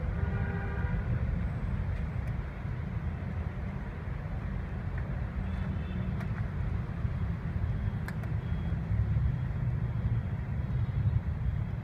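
Steady low background rumble with a few faint, sharp clicks spread through it and a brief pitched sound in the first second.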